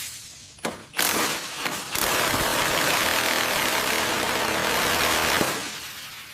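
A power tool running: a short burst about a second in, then a steady hissing grind for about three and a half seconds before it winds down and fades.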